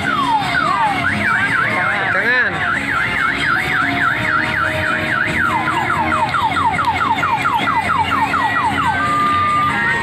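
Electronic siren sound effects from a kiddie carousel ride's loudspeaker: falling sweeps about twice a second, then a fast rising-and-falling warble for a few seconds, then quicker falling sweeps. A jingle of steady beeping notes takes over near the end.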